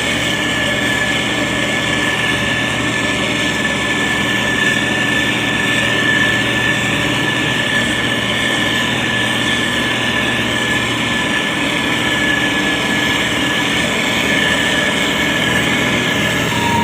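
Heavy road-construction machine's diesel engine running steadily, with a thin steady whine above the engine noise.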